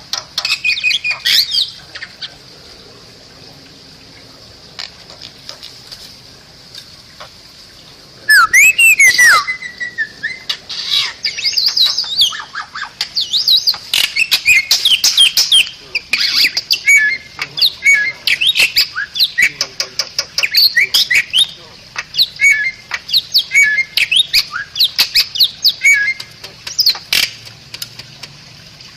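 Bali myna singing: a loud burst of harsh rising and falling whistles about eight seconds in, then a long run of rapid chirps, squawks and whistles, after a quieter stretch near the start. A steady high hiss lies underneath.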